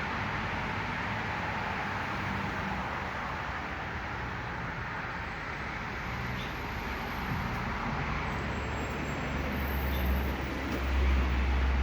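Steady road-traffic noise, with a vehicle's low rumble building near the end. A few faint, very high, short chirps sound in the middle.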